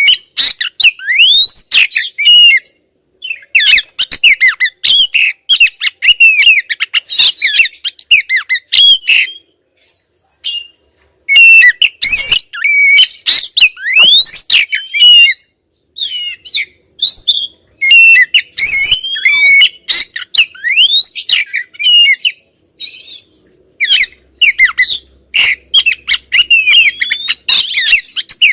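Female oriental magpie-robin (kacer) calling insistently: rapid runs of sliding whistled notes mixed with scratchy, chattering notes, broken by two short pauses.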